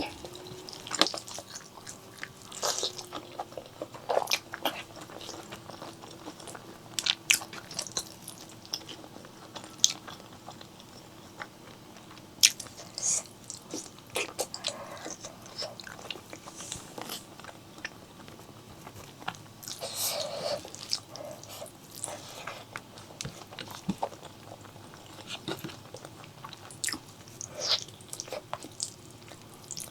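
Close-miked chewing and biting of spicy pork leg curry with Thai eggplants and rice: irregular wet mouth clicks, smacks and short crunches.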